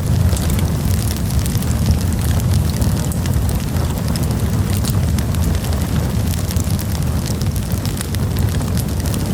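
Campfire burning steadily: a constant low rumble of the flames with frequent small crackles and pops of burning wood.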